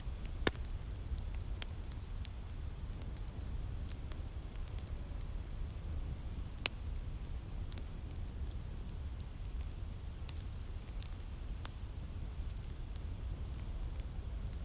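Wood fire crackling, with irregular sharp pops, the loudest about half a second in and another near the middle, over a steady low rumble of winter wind.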